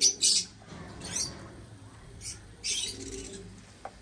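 Birds chirping: short, high chirps in scattered bursts, the loudest right at the start and another cluster near three seconds in.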